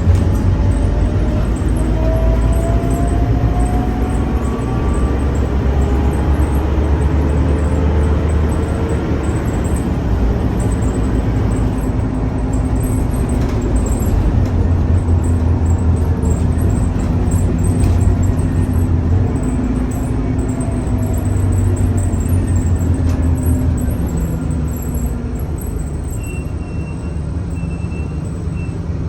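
Scania K310UA city bus running along. The engine drones steadily and a whine rises in pitch over the first few seconds as it gathers speed, then holds steady. Near the end the sound eases off a little, and a short high beeping is heard.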